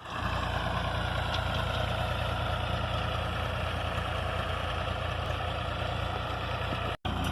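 Tractor engine running steadily, cutting out for a moment near the end.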